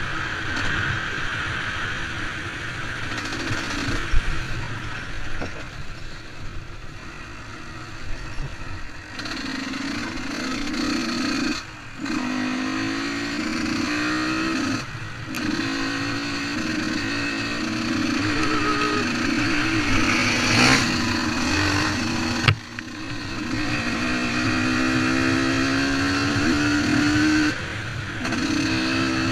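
125 cc two-stroke motocross bike being ridden, its engine revving up and down under load. The sound drops off briefly about four times, around the middle and toward the end, as the throttle is shut or a gear changes.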